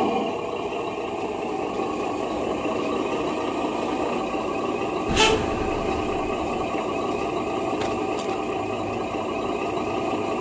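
Scale Scania truck's sound unit playing a running truck engine, with a short air-brake hiss about five seconds in.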